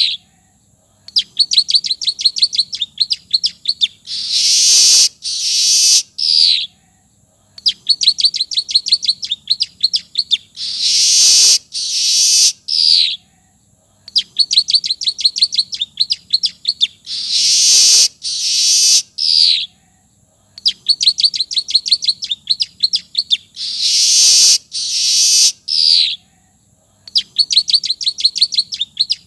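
Manyar (weaver) song with ciblek (bar-winged prinia) phrases worked in: a rapid run of high ticking notes, then loud harsh buzzy bursts and a short falling whistle. The same phrase repeats about every six and a half seconds, five times, with short silences between.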